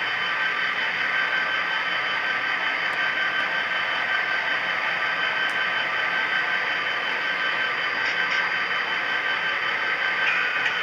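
HO-scale model train running on the layout: a steady hiss with a thin, even whine, and a few light clicks near the end.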